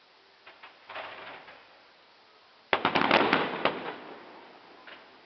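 Fireworks crackling: a few pops, a short crackle about a second in, then a sudden loud burst of rapid crackles just under three seconds in that fades over about a second and a half.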